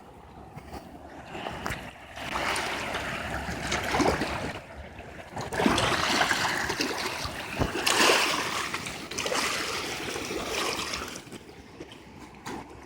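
Rushing water of the Niagara River rapids, an uneven rushing noise that swells louder for most of the stretch and eases off near the end.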